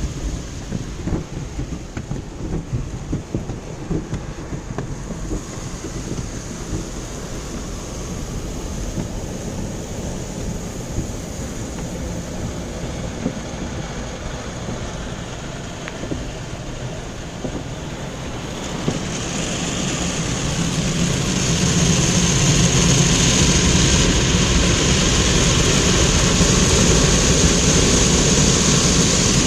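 Automatic car wash at work on a car: water spray and machinery drumming on the bodywork with irregular knocks, then about two-thirds of the way in a louder, steady rushing sound sets in.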